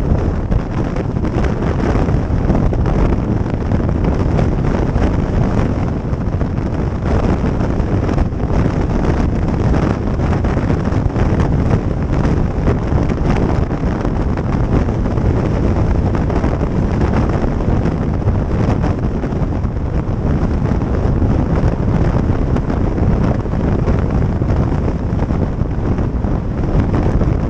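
Steady, heavy wind noise on the microphone of a moving motorcycle, a dense low rumble that does not let up, with the bike's running sound buried in it.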